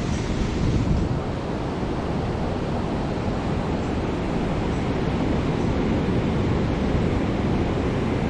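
Ocean surf on the beach, a steady wash of noise, with wind on the microphone.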